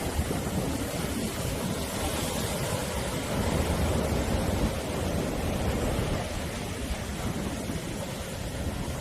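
Sea waves washing onto the shore in a steady, continuous surf that swells a little toward the middle and eases again.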